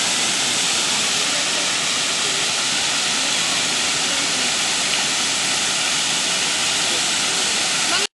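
Steady rush and splash of water from a fountain whose jets rise and fall, heard as a dense, even hiss; it cuts off suddenly near the end.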